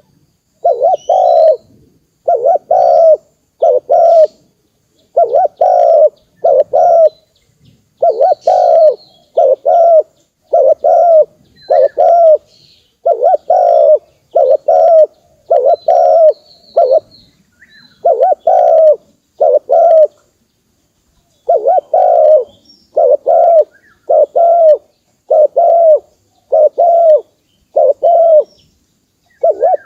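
Spotted dove cooing over and over, short coos in quick groups of two or three separated by brief pauses. Faint high chirps of another small bird come in now and then.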